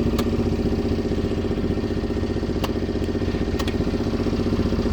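Yacht's motor running steadily at low speed, a fast, even low-pitched throb, with a few faint clicks over it.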